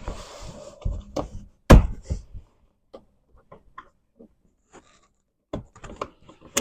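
Hands working the plastic interior trim and door handle lever of a car door: scattered clicks and knocks, with one loud knock a little under two seconds in and a quick run of clicks near the end.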